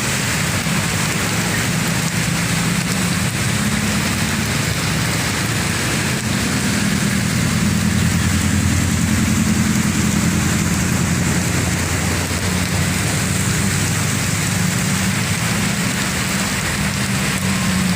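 Heavy rain pouring down steadily, with a vehicle engine running at a low steady hum underneath.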